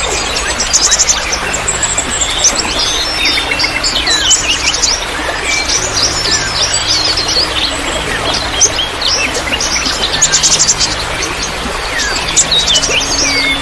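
Several songbirds chirping and trilling over one another, with short rapid runs of repeated notes, over a steady rush of trickling water. It is a bird-lure chorus meant to set caged birds singing in reply.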